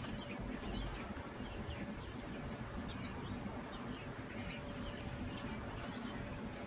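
Small birds chirping faintly and on and off over a steady low background noise.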